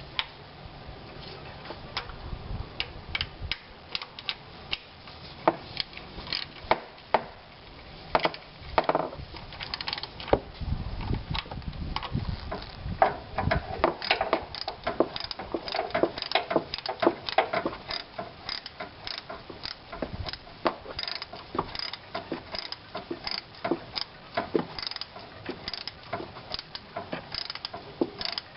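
Ratchet wrench clicking as a bolt is turned, with scattered metal clinks and knocks of tools and parts. The clicking becomes quick and steady about halfway through.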